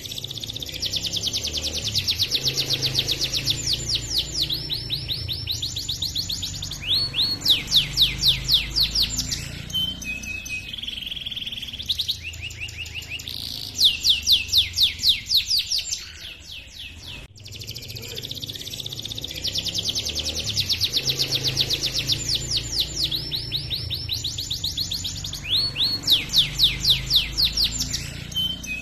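Domestic canary singing long rolling trills, rapid runs of repeated chirps with a few louder fast bursts, over a low background hum. The same song passage repeats about seventeen seconds in, as a looped recording.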